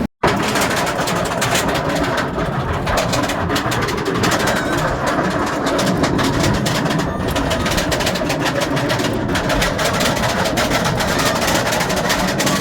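Roller coaster train running along its track: a loud, steady mechanical rumble.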